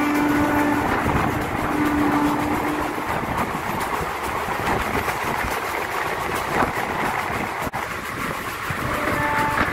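Passenger train running on the rails, a steady rolling rumble of wheels on track, with a steady hum through the first three seconds.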